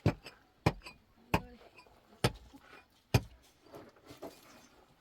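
Five sharp blows at an uneven pace, one every two-thirds of a second to a second; the last comes a little after three seconds in.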